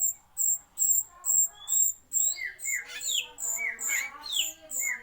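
Rio-rio bird lure call: short high chirps repeating evenly, about two to three a second. From about two seconds in, a run of quick falling whistled notes joins them.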